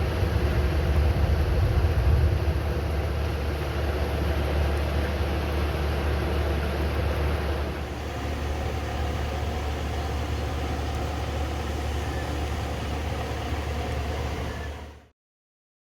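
Steady running noise of a vehicle with a strong deep hum, which drops a little and changes about 8 seconds in, then cuts off suddenly about 15 seconds in.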